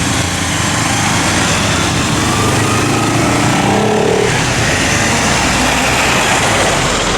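Several motorcycle engines running together, a steady, loud engine noise.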